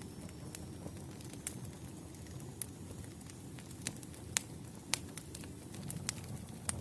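Wood campfire burning: a steady low rumble with sharp crackles and pops at irregular moments, the two loudest pops a little past the middle.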